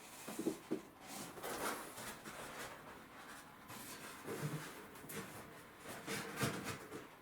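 Foam-board and cardboard faux fireplace pieces being handled and fitted together: irregular scraping and rubbing with a few soft knocks, one about half a second in, one past the middle and one near the end.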